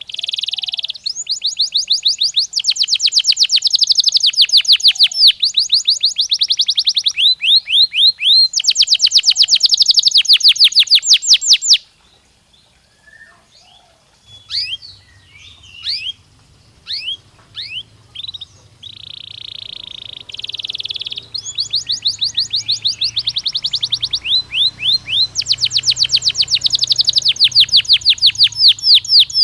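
Domestic canary singing long rolling trills of rapid repeated notes. About halfway through the song breaks off for several seconds into a few scattered short chirps, then the trills start up again. A faint low hum runs under the second half.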